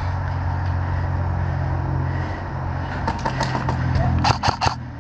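Airsoft guns firing: a scatter of quick light shots about three seconds in, then three sharper shots in quick succession near the end, over a steady low hum.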